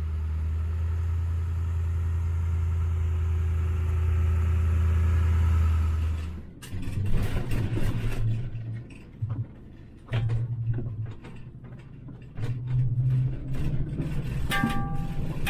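Steady low drone of a vehicle driving for about six seconds. It then changes abruptly to road noise heard inside a towed travel trailer: uneven rumbling with many clicks and rattles of loose contents and fittings as it rides over the road.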